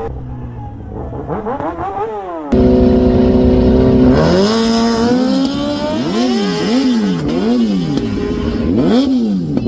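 A high-performance engine being revved hard while standing. Its pitch swings up and down, then jumps suddenly to a loud held high rev that climbs, and ends in a string of quick throttle blips, each rising and falling.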